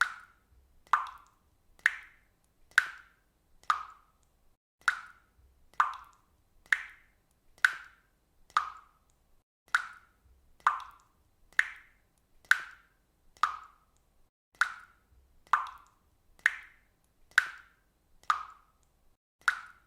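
Water dripping at a steady pace, about one drop a second, each drop a short, sharp strike with a brief tail.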